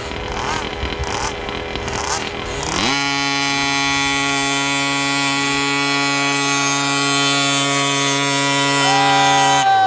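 Small gas engine of a 1/5-scale RC truck, blipping the throttle unevenly, then revving up sharply about three seconds in and holding a steady high pitch at full throttle under the load of the weight sled, before cutting off suddenly near the end.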